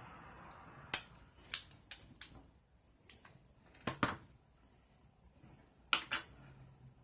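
Sharp, light clicks and taps of small hard objects being handled, like tools and metal parts on a workbench. The loudest is about a second in, and there are quick pairs of clicks near four and six seconds in.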